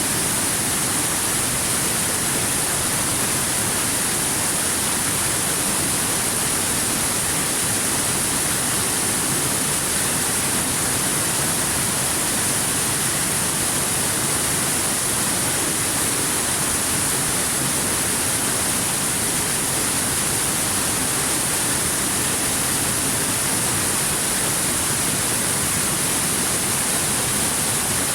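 Waterfall rushing steadily: an even, unbroken hiss of falling water that does not change.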